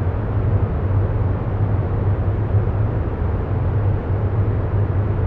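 Steady, even rumbling noise with a strong low hum near 100 Hz. It is a continuous background noise bed laid under a meditation, unchanging throughout.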